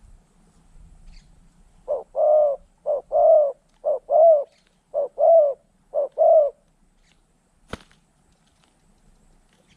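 Spotted dove cooing: five phrases, each a short coo followed by a longer one, about one a second. A single sharp click follows near the end.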